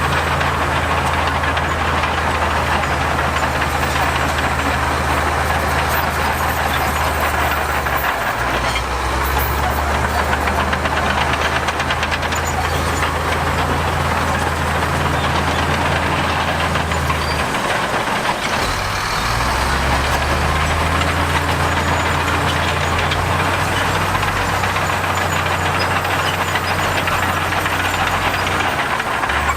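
Diesel engine of heavy earthmoving machinery running under work, a steady low drone whose note breaks off and shifts twice, with a constant rushing clatter above it.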